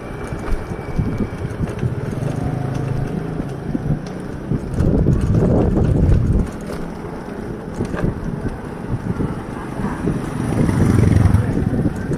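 Wind rushing over the microphone and road noise from a moving bicycle, with a motor vehicle's engine hum passing early on; the rushing swells about five seconds in and again near the end.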